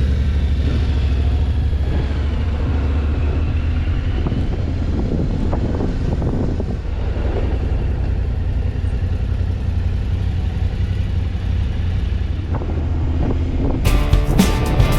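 Steady wind buffeting and engine and road rumble from a moving motorcycle. Guitar music comes in about a second before the end.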